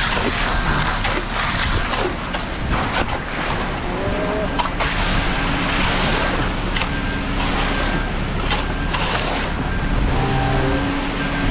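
Heavy equipment's diesel engine running steadily at a concrete pour, with wind buffeting the microphone. Scattered scrapes and knocks of tools on concrete, and a short beep repeating at an even pace.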